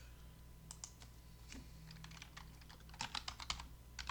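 Faint typing on a computer keyboard: scattered key clicks, then a quick run of keystrokes about three seconds in.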